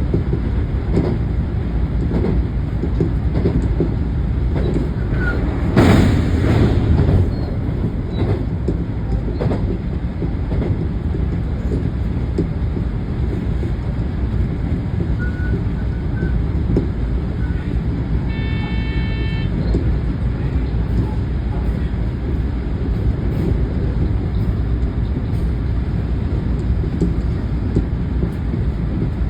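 Train running along the line, a steady low rumble of wheels on rail and traction heard from the cab. About six seconds in a louder rush lasts for a second or so, and near nineteen seconds a short high tone sounds for about a second.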